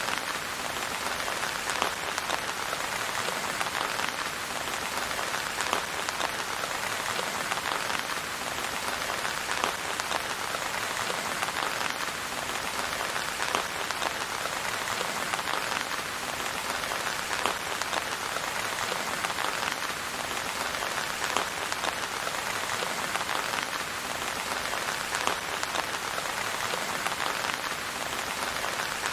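Steady rain falling on a surface, with a dense spread of individual drop hits and no let-up.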